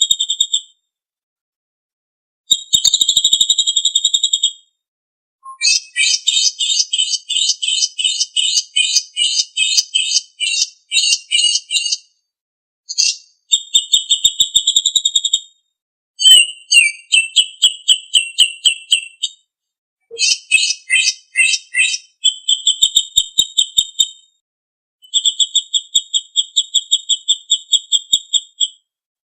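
Songbird masteran recording: a small bird's rapid, high-pitched trills, repeated in bursts about one to six seconds long with short silent gaps between them.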